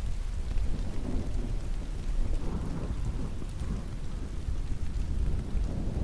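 Steady rain falling, with a low rolling rumble of distant thunder that swells through the first few seconds.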